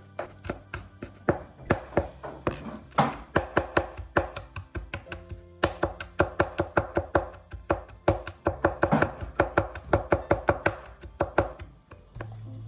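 Knife chopping on a cutting board in quick, uneven runs of several strokes a second, over background music; the chopping stops shortly before the end.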